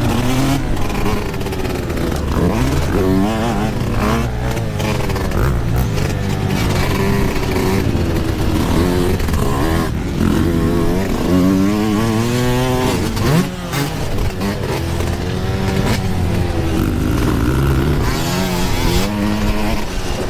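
Yamaha YZ125 single-cylinder two-stroke dirt bike engine ridden hard, its pitch climbing and dropping again and again as the throttle is opened and shut.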